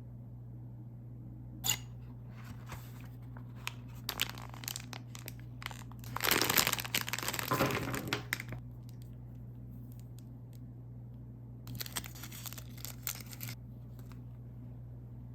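Plastic wrapper of Tirol Chocolate being crinkled and torn open by hand: a sharp click about two seconds in, scattered rustles, then a loud stretch of tearing and crinkling for about two seconds in the middle, and a few more crinkles near the end.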